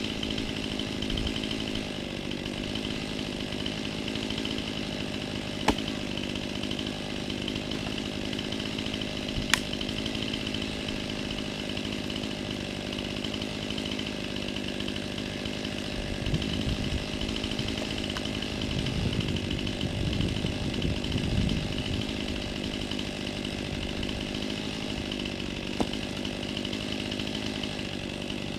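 Chainsaw running steadily throughout, with a louder, rougher stretch about two-thirds of the way through and a few brief sharp clicks.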